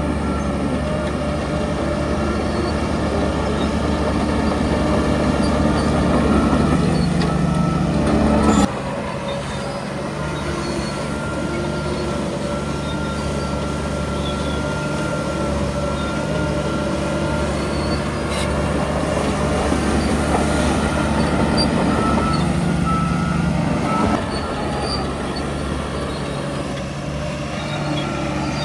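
Shantui DH17C3 bulldozer's diesel engine running under load, the engine note dropping suddenly about nine seconds in and again near the end, with a high metallic squeal coming and going through the middle.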